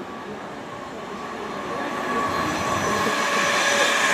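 London Midland Class 350 Desiro electric multiple unit approaching on the main line, its rail and running noise growing steadily louder, with a few faint steady whining tones.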